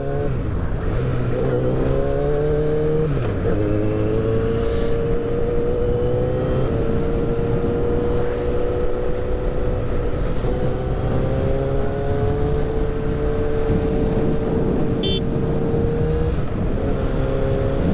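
Motorcycle engine under way, the pitch rising and then dropping at a gear change about three seconds in, then holding steady revs at cruising speed, with wind rumble on the helmet mic.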